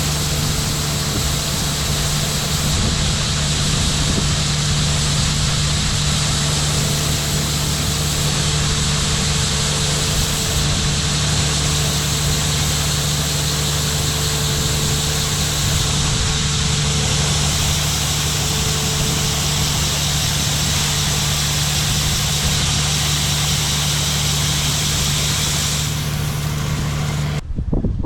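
Farm machinery engine running steadily, a constant low hum under a wide mechanical hiss, which cuts off abruptly near the end.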